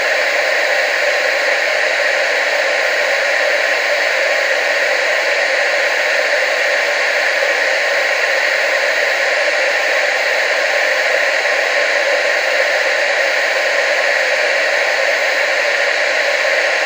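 TV static: a steady, unbroken hiss of noise with most of its energy in the middle and upper range and almost no bass.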